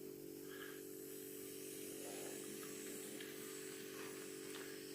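Faint, steady electric buzz from the N gauge model railway.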